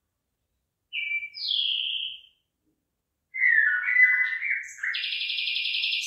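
Bird song: a short two-part call about a second in, then after a pause a longer run of quick varied whistled notes that ends in a rapid rattling trill near the end.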